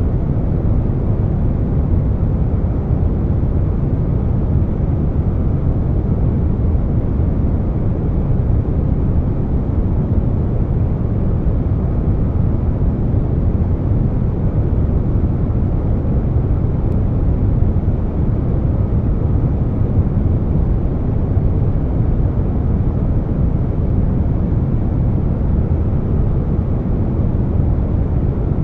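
Air conditioner noise blended with brown noise: a steady, deep rushing sound weighted toward the low end, with no changes or interruptions.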